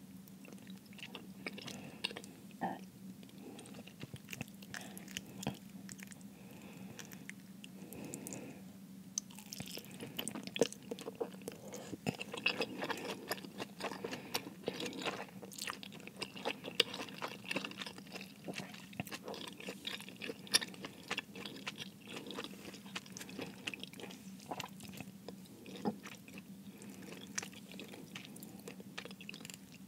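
Close-miked chewing and biting of cheese-filled dumplings: wet mouth clicks and smacks, busiest through the middle, over a steady low hum.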